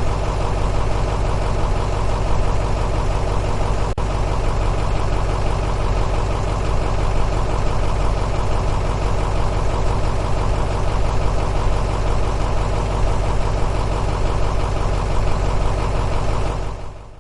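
Bus engine idling steadily, a recorded sound effect, with a brief dropout about four seconds in; it fades out near the end.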